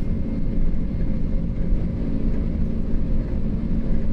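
Flight deck of a McDonnell Douglas MD-11 freighter accelerating down the runway at takeoff thrust, past 80 knots: a steady, loud rumble with a faint steady hum running through it.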